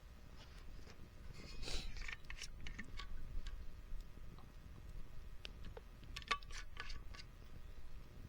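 Irregular wood crackles and sharp snaps at a small campfire, in scattered clusters, with the busiest run about two-thirds of the way through.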